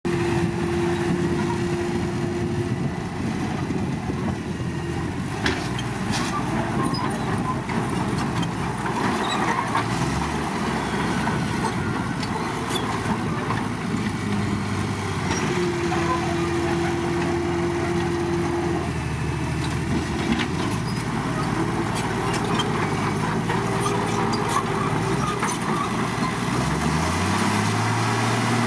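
Komatsu D53 crawler bulldozer's diesel engine running and changing pitch as it works, revving up near the end, with scattered clanks and knocks from the machine. A steady high whine comes and goes twice.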